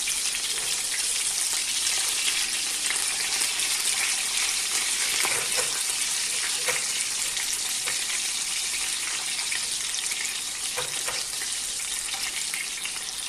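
Chicken burger patties sizzling steadily as they shallow-fry in hot oil in a pan, with fine crackling and a few light clicks.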